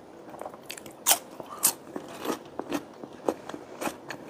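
A person biting into and chewing a fresh cucumber slice: two loud crisp crunches about a second in, then a run of quieter crunches as it is chewed.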